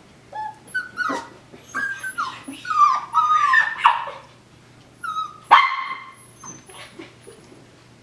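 Coton de Tulear puppies yipping and whining as they play-fight: a string of short, high, falling cries over the first four seconds, then one louder yelp about five and a half seconds in.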